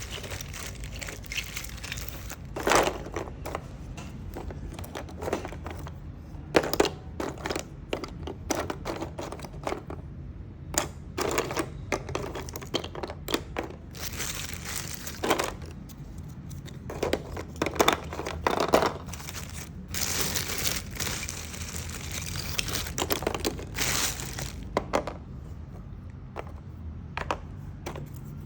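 Agarwood pieces being handled: irregular clicks and knocks of small hard wood pieces against each other and a surface, with stretches of crinkling rustle.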